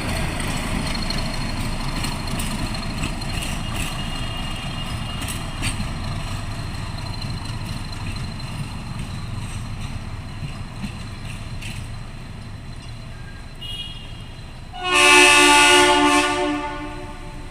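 Nilgiri Mountain Railway (Ooty) train running with a steady rumble and scattered wheel clicks, the rumble slowly fading. About fifteen seconds in, the train's horn sounds once, loudly, for about a second and a half.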